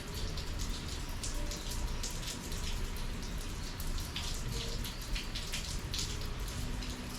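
Summer rain falling, with many irregular drops pattering close by over a steady low rumble.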